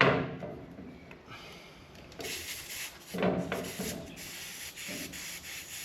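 Rubbing and scraping as a mini tyre inflator's screw-on hose chuck is threaded onto a motorcycle tyre valve. From about two seconds in, air hisses out of the valve in spurts while the chuck seats.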